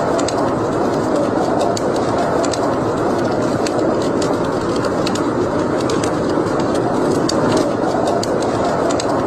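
Wood fire burning in a fireplace: sharp, irregular crackles over a steady rushing sound.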